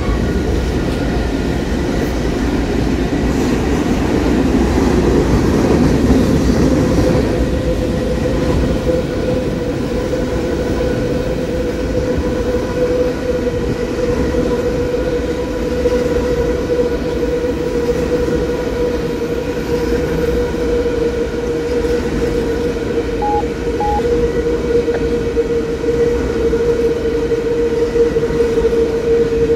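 A train rolling past close by, with a continuous rumble. A steady whine comes in about seven seconds in and holds through the rest.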